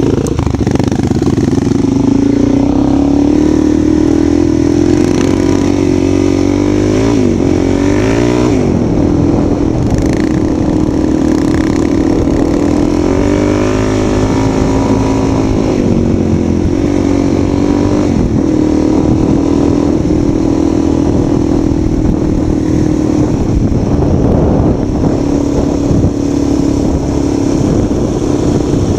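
Motorcycle engine running under way, its note holding steady and then shifting in pitch a few times as the revs change.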